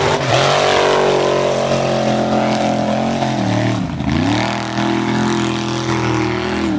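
Mud truck's engine revved up and held at high revs, dropping briefly about four seconds in and climbing back up again.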